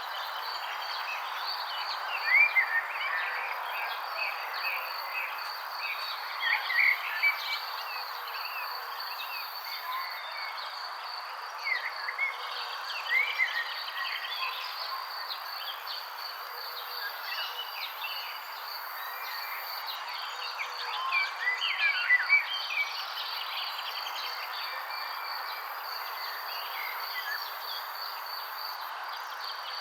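Birds chirping in scattered short bursts over a steady, high-pitched insect trill and a constant background hiss of natural ambience.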